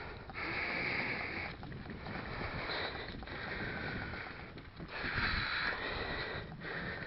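Riding noise from a mountain bike on a dirt forest track: wind buffeting the microphone over the rumble of the tyres and frame. Higher-pitched hissing stretches about a second long come and go four times.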